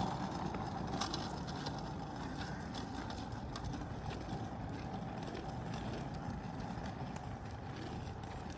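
Kids' kick scooter wheels rolling over pavement: a steady rumble with occasional sharp clicks and rattles.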